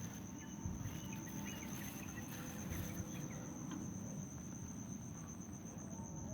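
Field insects trilling in one steady high-pitched tone, with faint short chirps and low rustling underneath.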